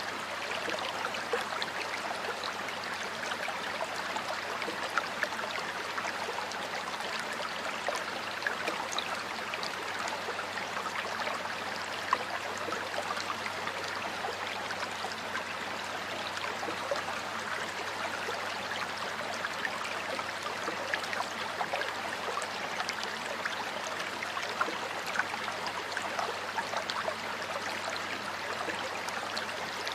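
Water flowing in a stream: a steady, even rushing with small splashes and drips scattered through it.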